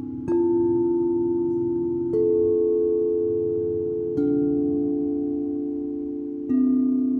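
Singing bowls struck one after another, four strikes about two seconds apart, each a different pitch. Each rings on and fades slowly, so the tones overlap.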